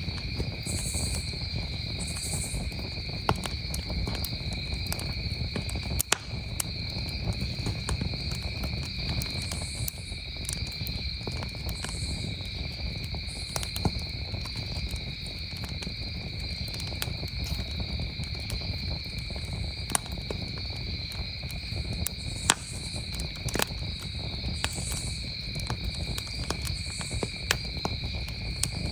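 Crickets trilling steadily with a campfire crackling, its scattered sharp pops standing out now and then, the loudest about six seconds in and twice more past the middle.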